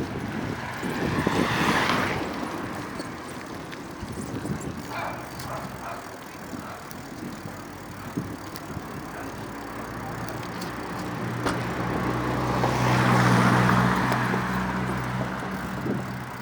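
Motor vehicles passing on a street: one goes by about two seconds in, and a louder one with a low engine hum swells up and fades away in the second half.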